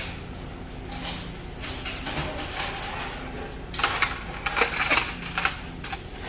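Spoons and forks clinking and clattering against each other as they are handled and packed, with a run of sharp clinks about four to five and a half seconds in.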